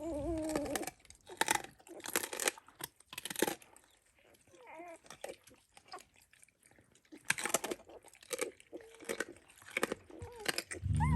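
An adult Dalmatian crunching raw duck necks, the bones cracking between its teeth in irregular bursts of chewing, with a few short squeaky whines in between.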